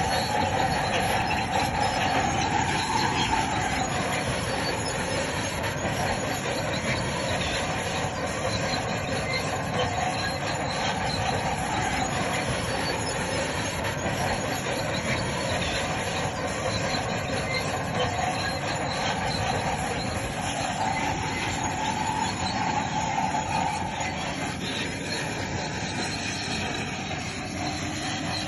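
Crawler bulldozer working, its steel tracks squealing and clanking over the steady noise of the diesel engine, the squeal wavering in pitch.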